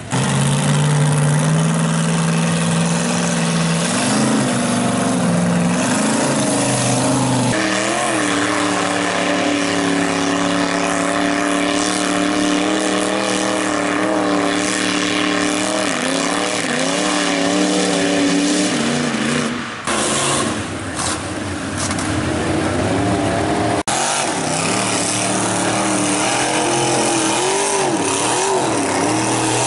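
Lifted mud trucks' engines revving hard, the pitch rising and falling as the trucks spin their tires through mud. The sound changes abruptly several times, as one truck's run cuts to the next.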